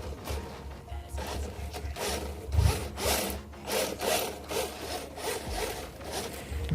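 Snow crunching and scraping in a run of rough strokes, about two a second.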